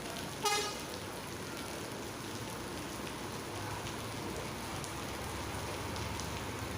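Steady heavy rain, with one short vehicle horn toot about half a second in. A low engine hum builds from about halfway through.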